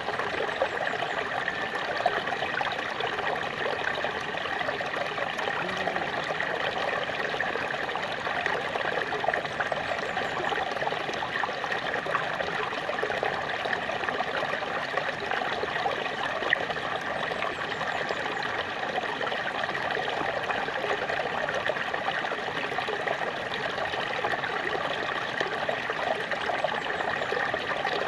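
Small waterfall splashing and trickling steadily, with many fine droplet splashes.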